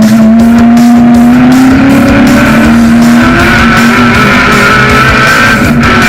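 Historic muscle race car V8 engine running hard at steady high revs, its pitch rising a little about two seconds in, with music playing alongside.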